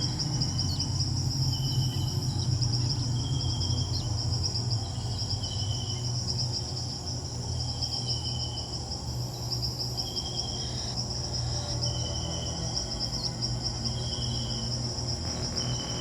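A nature-sound bed of an insect chorus, a steady high trill like crickets, with a short note repeating every second or two over a low steady hum.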